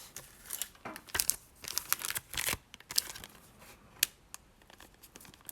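Packaging of a trading card Elite Trainer Box being handled and unpacked: plastic wrap crinkling and tearing in short irregular rustles.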